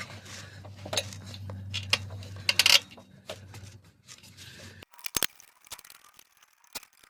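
Metal parts and tools clinking and scraping as the new alternator is handled and wiggled into place in the engine bay. A low hum under it cuts off suddenly about five seconds in, and a few sharp clicks follow.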